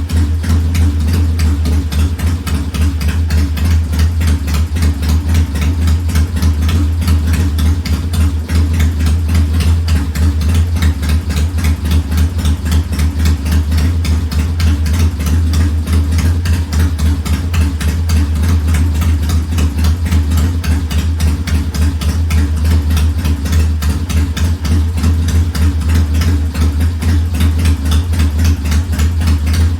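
1969 Triumph T100's 500 cc parallel-twin engine idling steadily while it warms up, with an even, fast exhaust pulse and no change in speed.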